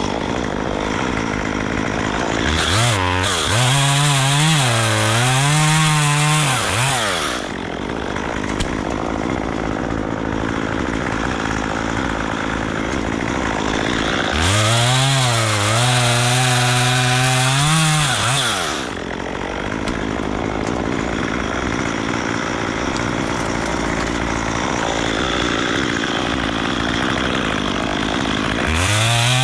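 Chainsaw revving up to full throttle and cutting wood twice, each cut lasting about four seconds, with the engine note wavering under load. The saw drops back to a lower running sound between cuts, and a third rev begins near the end.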